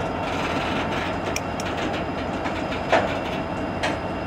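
Intermodal freight train's container cars rolling slowly past, a steady rumble of steel wheels on rail with a faint thin whine underneath. A few sharp clicks and knocks from the wheels and couplings, the loudest about three seconds in.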